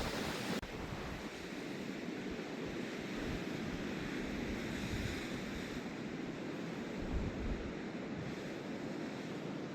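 Wind rushing and buffeting the microphone, a steady noise with no clear rhythm.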